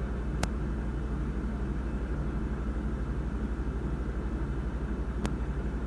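Steady low rumble, as of a car running, with two sharp clicks about five seconds apart.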